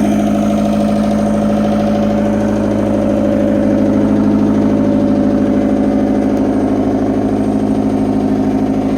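Diesel engine of a Fiat Hitachi FH150 excavator running steadily at an even speed.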